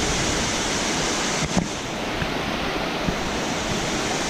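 Steady rushing of water over a waterfall's cascades, an even, continuous noise.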